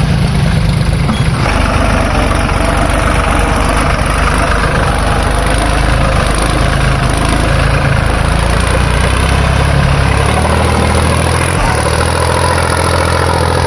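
Heavy diesel engine of a backhoe loader or tractor running steadily.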